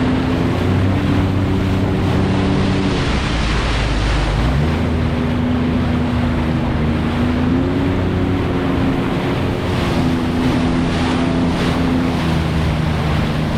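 Jet ski engine running steadily over the water, its pitch shifting now and then and rising about four and a half seconds in, with water rush and wind on the microphone.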